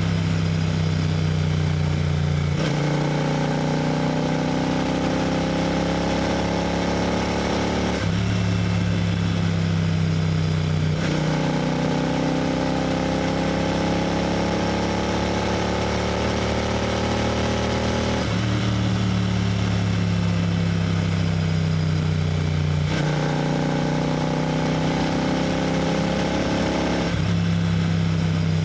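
Royal Enfield GT 650's 648 cc parallel-twin engine and exhaust running steadily at highway cruising speed. Its note changes abruptly several times, every few seconds.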